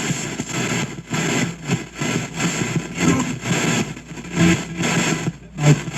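SBox spirit box sweeping through radio stations, played through an ANC noise reducer into a shop radio. The sound is choppy, rapidly switching bursts of static and broken broadcast fragments.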